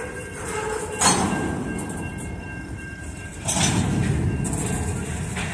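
Covered hopper grain cars rolling slowly through a grade crossing, wheels rumbling on the rails. There is a sharp clank about a second in, and the rumble grows louder from about three and a half seconds in.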